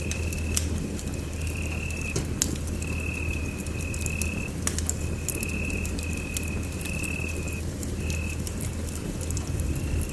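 Wood fire crackling in a fireplace: scattered sharp pops and snaps over a steady low rumble. A high, even trill comes and goes in short stretches throughout.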